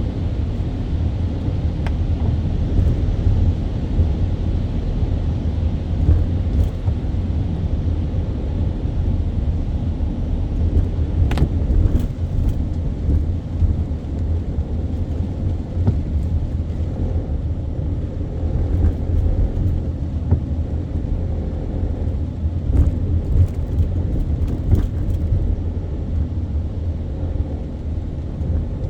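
A car being driven: a steady low rumble of engine and road noise, with a few faint clicks now and then.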